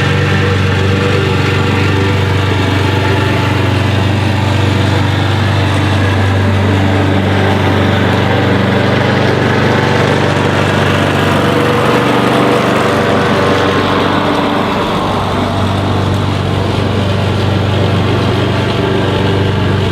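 An engine running steadily at an even pitch. Its low hum wavers briefly about twelve seconds in, then settles again.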